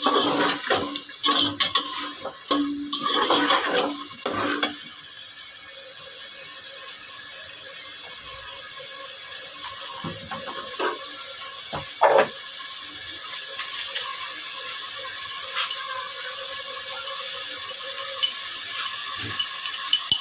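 Moong dal frying in masala and oil in an aluminium pot: a metal slotted spoon stirs and scrapes against the pot for the first four seconds or so, then a steady sizzle with an occasional pop.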